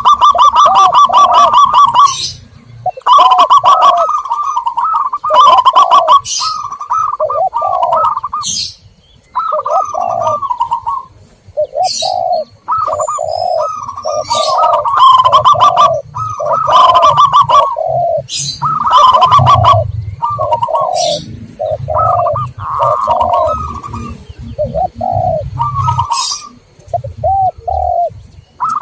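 Zebra doves and spotted doves cooing in repeated, overlapping phrases, one set of calls higher and trilling and another lower and rounder, with sharp high chirps in between. It is a dove lure recording, played to call in wild doves.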